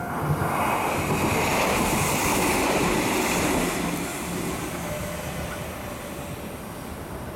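Shizuoka Railway A3000-series electric train running along the track and moving away: a rush of wheel and rail noise, loudest for the first four seconds or so, then slowly fading as the train recedes.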